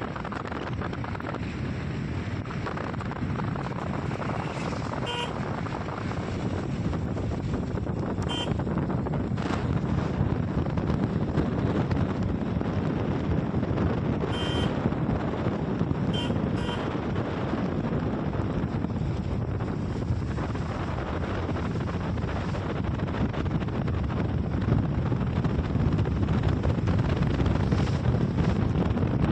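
Steady vehicle running noise with wind rushing over the microphone, broken by a few short, high toots.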